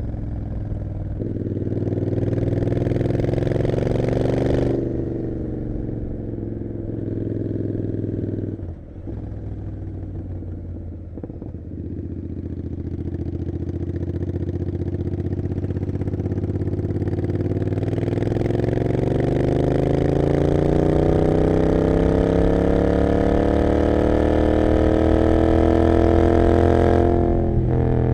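Royal Enfield Continental GT 650's 648 cc parallel-twin through an Emgo cafe muffler with no dB killer, under way and accelerating. The pitch rises for a few seconds and drops about four seconds in, then the engine runs lower. From about twelve seconds it makes one long rising pull, and near the end the pitch falls sharply at an upshift.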